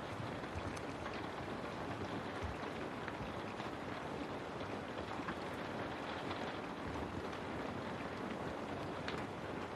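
Steady rain with scattered individual drops tapping, as of rain falling on a window.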